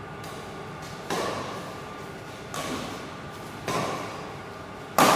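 Badminton racket strikes on a shuttlecock in a rally, four hits about a second and a half apart, each ringing out in a large hall, the last hit the loudest.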